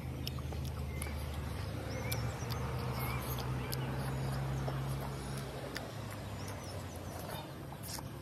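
Close-up chewing and wet mouth clicks of someone eating boiled greens and rice by hand. Birds chirp in short rising notes every second or so. A steady low hum fades out about five and a half seconds in.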